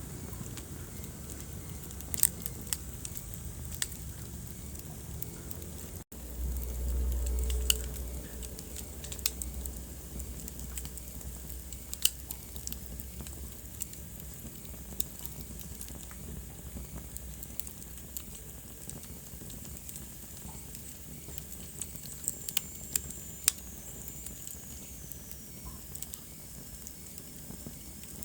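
Wood fire crackling, with scattered sharp pops over a low steady rush of flame. About six seconds in the sound drops out for an instant, then a low rumble swells and fades over the next couple of seconds; a faint falling whistle is heard near the end.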